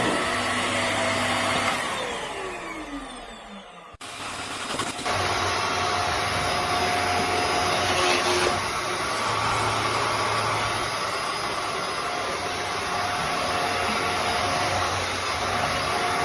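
Vax Mach Air corded upright vacuum cleaner running with a steady whirring hum. About two seconds in, the motor winds down with falling pitch and fading. About four seconds in, the sound jumps abruptly back to full running.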